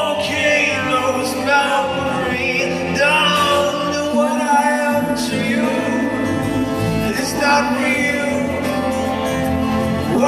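Music: a song with a singing voice carrying long, gliding notes over instrumental accompaniment.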